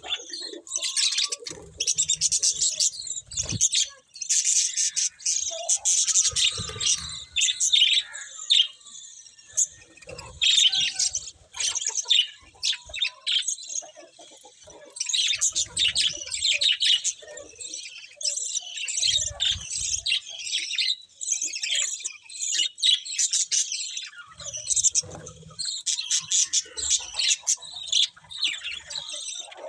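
A flock of budgerigars chirping and warbling non-stop, with rapid high chirps overlapping one another. A few soft low thumps come and go underneath.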